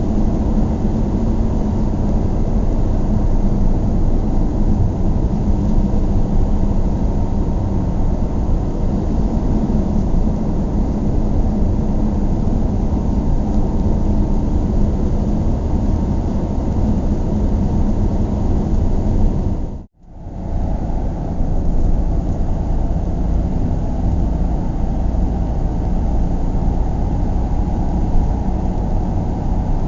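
Steady road and engine noise of a moving car as heard from inside, a constant low rumble. About two-thirds of the way in it fades out to silence for a moment and fades straight back in, like a splice in the recording.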